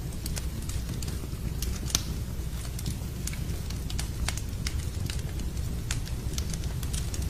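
Fireplace wood fire crackling, with irregular sharp pops over a steady low rumble; one pop about two seconds in is louder than the rest.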